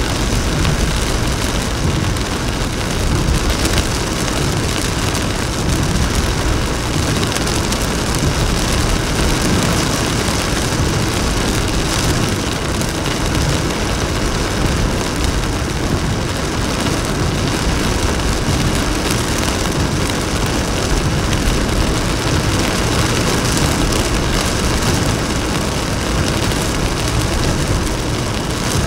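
Heavy rain and the hiss of tyres on a soaked road, with a deep rumble of traffic, heard from a car driving in a downpour. It is a loud, steady rush with no breaks.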